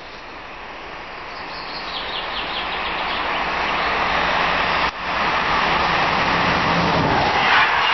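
Electric train hauled by a BB 26000 (Sybic) locomotive approaching at speed: a rumbling rush that grows steadily louder as it nears, with a steady hum from about three seconds in. The sound briefly cuts out just before the five-second mark.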